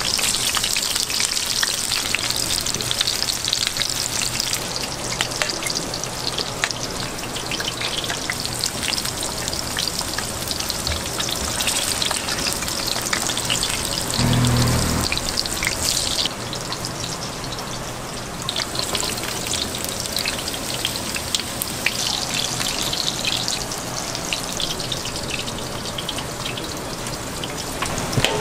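Fried dumplings (twigim-mandu) sizzling in shallow oil on a flat griddle: a steady crackling sizzle. A brief low thump comes about halfway through.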